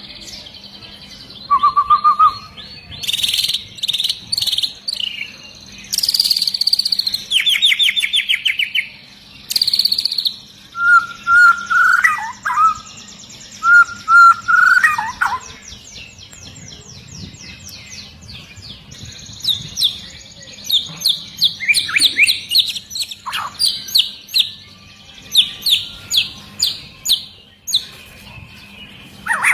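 White-rumped shama singing a loud, varied song: fast trills, clear whistles and quick runs of repeated notes, delivered in phrases with short pauses between them.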